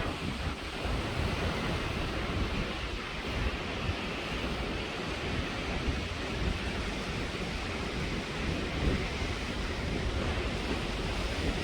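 Strong wind buffeting the microphone: a gusty low rumble over a steady rushing hiss.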